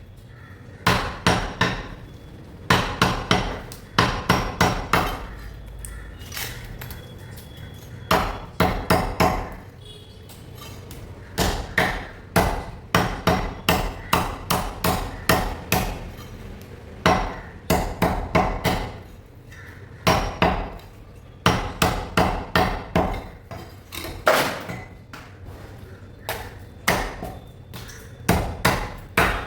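A blade chopping through raw chicken on a chopping block, in quick runs of several hard strokes with short pauses between them.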